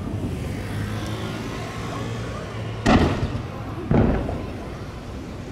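Aerial firework shells booming twice, about a second apart, each boom trailing off in a rolling echo.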